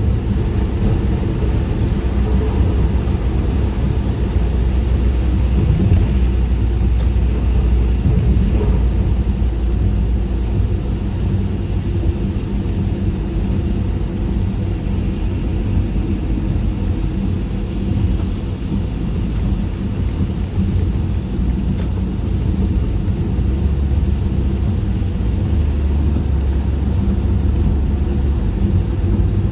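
Steady low rumble of a car's tyres and engine, heard from inside the closed cabin while driving on rain-wet roads.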